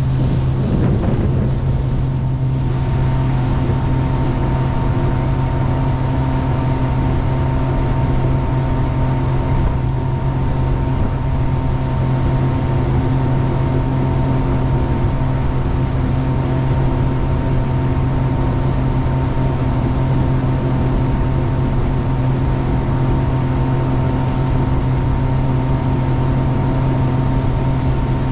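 Jet boat engine running steadily at one speed, a constant drone that holds its pitch and loudness throughout.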